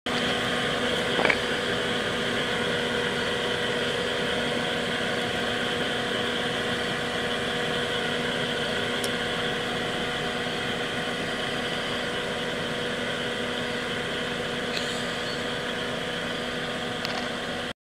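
Car engine idling steadily with a constant hum, with a brief knock about a second in and a few faint clicks later.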